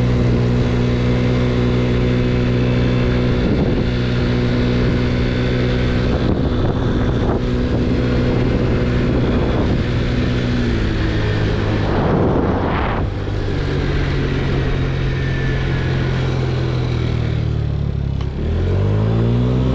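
A 50cc scooter's engine running at steady speed while being ridden. The engine note drops about eleven seconds in, and a brief rush of noise follows about a second later. Near the end the note dips sharply, then rises again as the scooter speeds back up.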